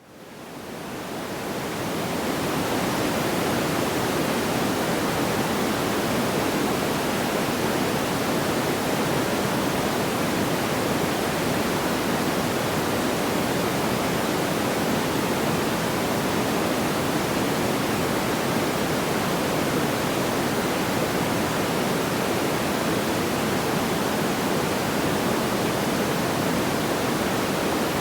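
Steady, even rushing noise like pink noise, with no crackles or pops, fading in over the first couple of seconds and then holding level.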